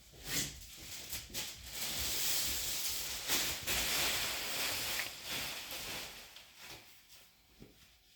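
Rustling handling noise, like packaging being moved about. It swells about two seconds in and fades near the end, with a few light knocks near the start.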